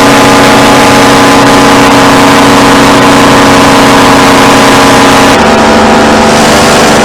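Paramotor engine and propeller running steadily at high power, close and loud, then throttled back about five seconds in, its note dropping in pitch.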